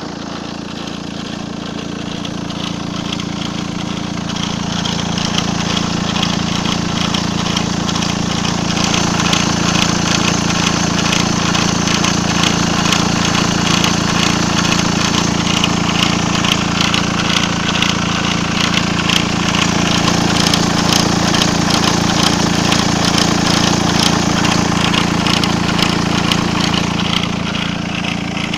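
VW 1.9 TDI diesel engine idling with a noise and squeak from the area of the injection pump, with fast ticking over a steady hum, growing louder over the first several seconds. The owner found the cause to be worn auxiliary drive belts (not the timing belt) and their tensioner pulley.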